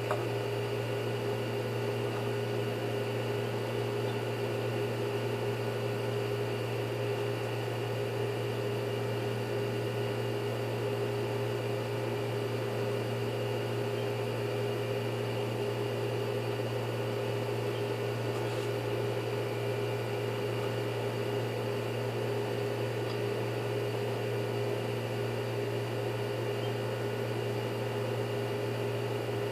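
A steady electrical hum with a low drone and several constant tones above it, unchanging throughout.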